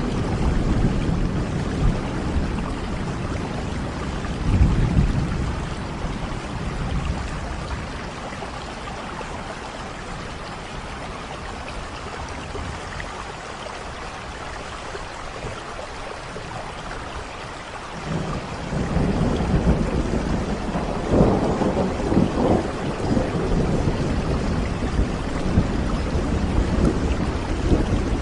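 Steady heavy rain with rolling thunder: deep rumbles fade out in the first third, leave rain alone for about ten seconds, then a new peal breaks in sharply past the middle and rolls on to the end.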